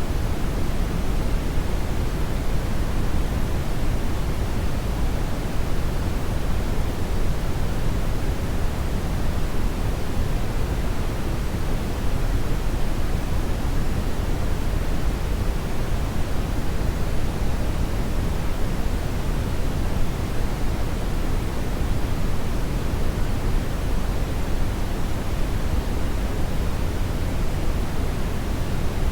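Hair dryer running steadily: an even, unbroken rush of blown air, heaviest in the low end, with no change in speed or setting.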